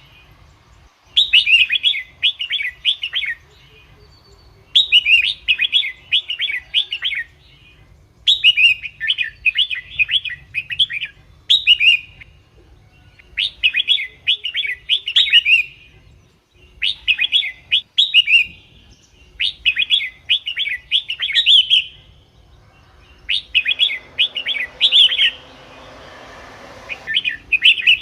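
Red-whiskered bulbul singing: about nine short, lively phrases of quick chirping notes, each a second or two long, with brief pauses between them. A faint hiss runs under the song near the end.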